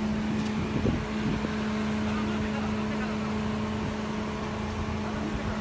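Steady hum of an idling car engine, one even droning tone, over roadside background noise.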